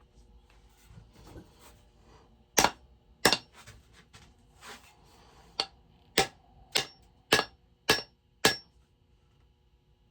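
Hammer blows while hanging an axe head on its handle: two hard strikes, then six more in a steady rhythm a little over half a second apart, some leaving a short metallic ring.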